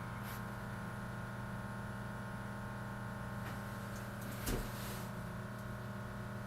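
Keurig K-2550 coffee maker's water pump running with a steady hum, drawing water from the reservoir to fill the internal hot water tank on first start-up. A light knock about four and a half seconds in.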